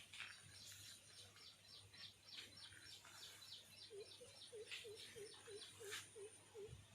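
Faint bird chirping: a long, rapid series of short high chirps, about six a second. About four seconds in, a second, lower call joins, repeating about three times a second.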